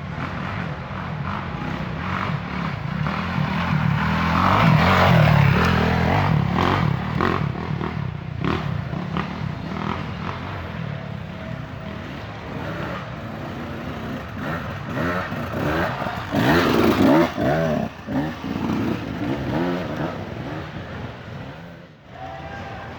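Dirt bike engines revving hard on a trail, loudest about five seconds in and again near seventeen seconds, where the pitch swings up and down, with short knocks in between.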